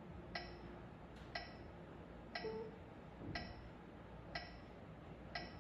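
Metronome ticking steadily about once a second, with a couple of soft piano notes a little past the middle.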